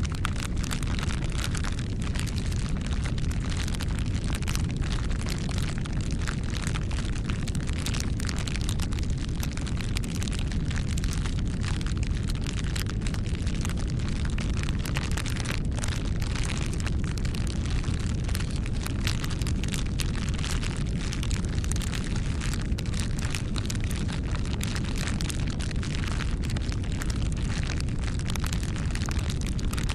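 Bonfire burning: a steady low rumble of flame with frequent irregular crackles and pops of burning wood.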